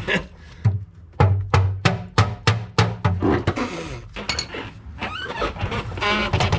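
Repeated sharp knocks, about three a second, struck against a stuck starter motor to free it from the engine's spacer plate.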